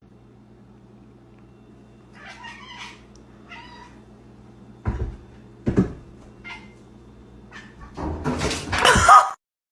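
A cat meowing several times in short calls, with two sharp knocks in the middle, then one long, loud meow near the end over a steady low hum.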